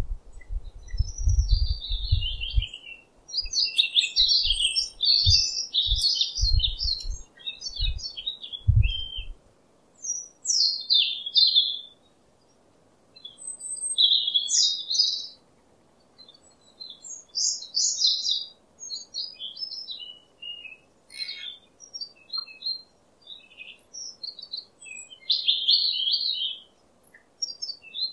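Small birds chirping and twittering in short repeated phrases. Low thumps come and go during the first several seconds, then stop.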